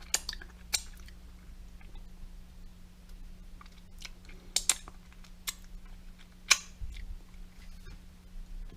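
Someone handling a plate that holds a hot, burst microwaved tomato: scattered sharp clicks and taps, about half a dozen, with the loudest about two-thirds of the way through, over a steady low hum.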